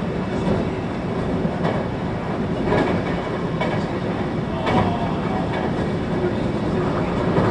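Running noise of a 521 series electric train heard from inside the car: a steady rumble of wheels on rail, with a few sharper clacks as the wheels cross rail joints.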